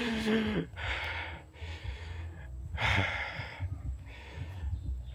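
A person breathing hard after a steep uphill climb, drawing loud breaths about once a second, beginning with a short voiced sigh.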